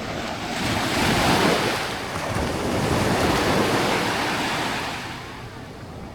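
Small Mediterranean waves breaking and washing up a sandy beach. The sound swells twice and eases off near the end.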